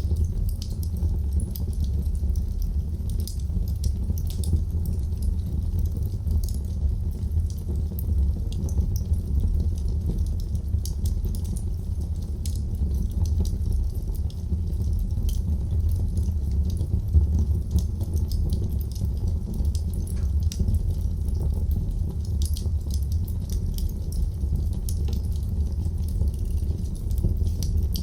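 Wood fire burning in a fireplace: frequent, irregular sharp crackles and pops of burning wood over a steady low rumble of the flames.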